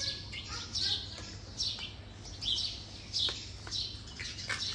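Small birds chirping repeatedly, short high notes about once or twice a second, some sweeping down in pitch, over a steady low hum.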